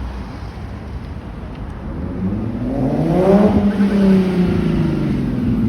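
A car driving past: its engine note grows louder and climbs in pitch as it approaches, peaks a little over three seconds in, then drops in pitch and fades as it moves away.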